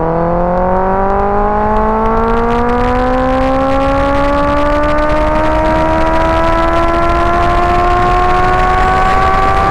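Kawasaki ZX-6R 636 cc inline-four engine, breathing through an IX race exhaust with link pipe and no catalytic converter, pulling hard under acceleration. Its pitch climbs steadily and unbroken throughout, revving higher in a single gear.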